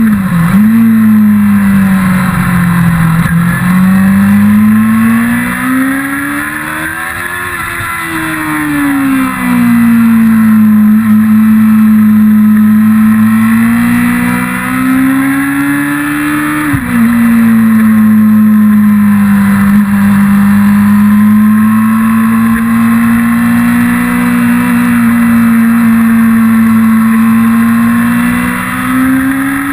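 1999 Yamaha R6 inline-four sports-bike engine at high revs, heard from on board the bike, its pitch sinking and climbing repeatedly. The pitch dips suddenly just after the start and again about 17 seconds in.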